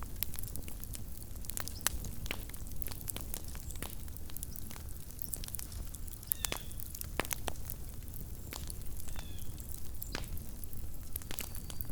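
Small wood campfire crackling, with irregular sharp pops and snaps over a low, steady background. A few faint, brief high whistles come in the second half.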